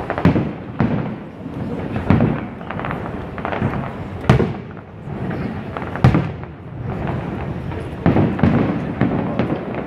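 Fireworks display going off: a string of booming bursts, the sharpest about a third of a second in, near two seconds, just past four seconds and at six seconds, with smaller bangs and crackling between them.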